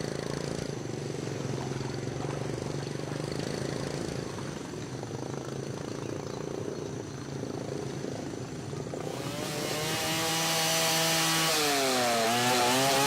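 Chainsaw engine running steadily at low speed, then louder from about nine seconds in, its pitch dipping and rising again near the end.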